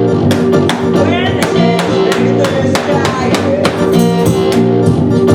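Live band music led by guitar, with a steady beat.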